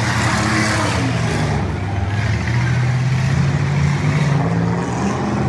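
Demolition derby cars' engines running and revving, their pitch shifting up and down.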